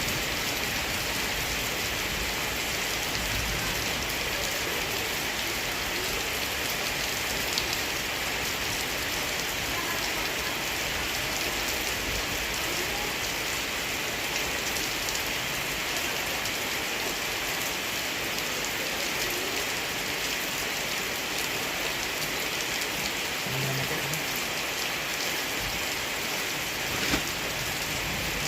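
Heavy rain falling steadily, with a few individual drops ticking close by.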